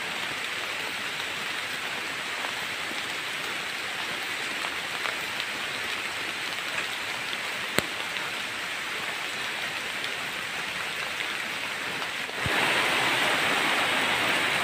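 Heavy rain falling steadily, an even hiss that turns louder about twelve seconds in. A single sharp click sounds about halfway through.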